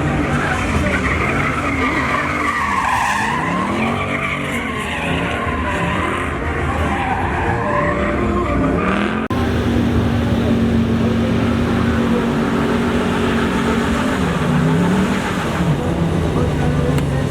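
Pickup truck doing a burnout: the engine revs up and down under a wavering tire squeal. About nine seconds in the sound changes abruptly to the engine held at steady high revs.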